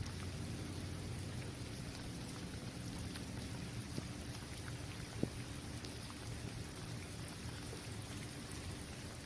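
Steady rain falling on an outdoor basketball court, an even hiss dotted with the ticks of single drops, over a low steady rumble. A sharper drop strike stands out about five seconds in.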